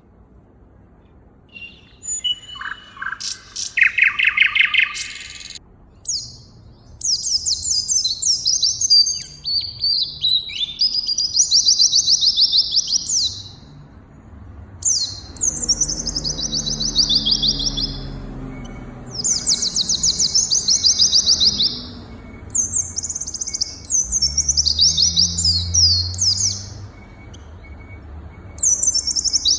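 A songbird singing: repeated high-pitched phrases of rapid trilled notes, each lasting two to three seconds, with short pauses between them. A lower series of chirps comes a couple of seconds in.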